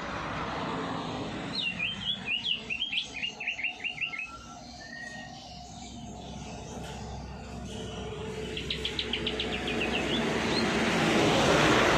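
A songbird singing two short phrases of rapid repeated chirping notes, a few seconds apart, over steady background noise. A hiss swells near the end.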